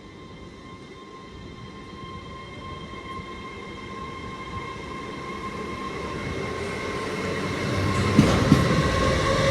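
A train approaching and growing steadily louder, its traction whine held on a few steady tones, with a few wheel knocks over the rails near the end.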